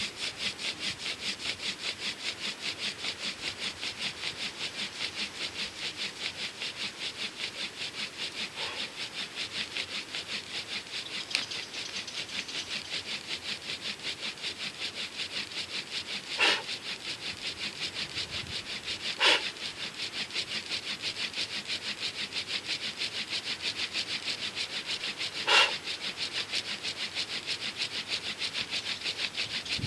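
Home-made Archimedes drill working a friction fire: the wooden spindle rasps in the hearth board's notch in a fast, even rhythm of several strokes a second as the handle is pumped. A few louder sharp clicks break in later on.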